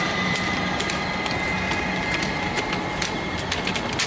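Suburban electric train running on the tracks: a steady rumble with irregular clicks of the wheels over rail joints and points, and a thin high whine that fades away.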